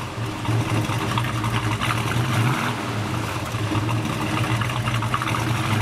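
A muscle car's V8 engine idling steadily.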